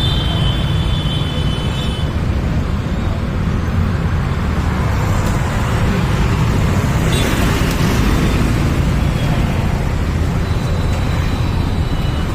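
Steady low rumble of a vehicle or road traffic, with a brief rush of noise about seven seconds in.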